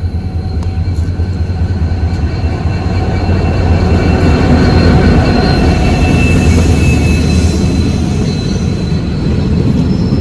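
Passenger train pulling into the station, a loud continuous rumble of the coaches that swells to a peak around the middle, with faint high squeals from the wheels.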